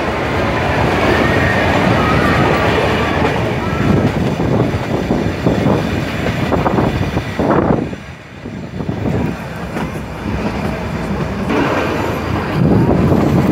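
Nilgiri Mountain Railway toy train running, heard from an open coach window: a steady rumble and clatter of wheels on the rails, with a faint wheel squeal about two seconds in.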